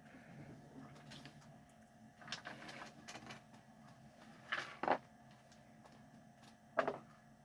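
Faint handling noises: a scuffling rustle about two seconds in, then two short knocks, one near the middle and one near the end.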